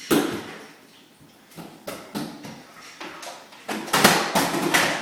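A series of knocks and clatters: a loud hit right at the start, a few lighter ones in the middle, and a quick run of loud knocks near the end.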